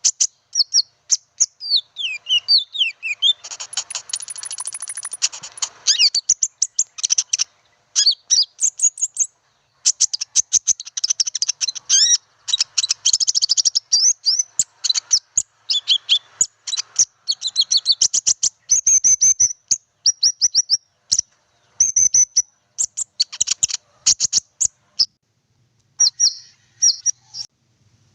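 Konin bird calling: rapid, high-pitched chirps and fast trills in quick runs broken by brief pauses, with a few falling notes about two seconds in. This is the lure call (suara pikat) that trappers play to draw the birds in.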